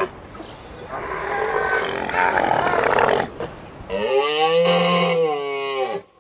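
A large animal roaring and growling for about three seconds, followed about four seconds in by a long drawn-out call that rises and then falls in pitch.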